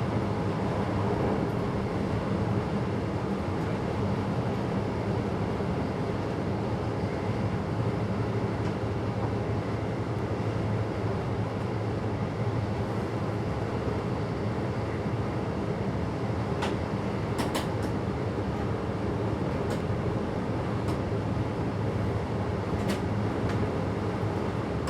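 A passenger train running steadily on the line, heard from inside the driver's cab: a constant rumble and hiss, with several sharp clicks in the latter part.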